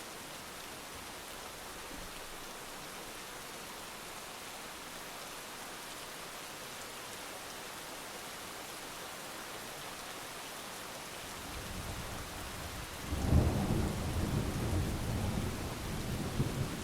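Steady heavy rain hissing. About eleven seconds in, a low thunder rumble builds, then breaks into a loud rolling peal that keeps rumbling and swelling.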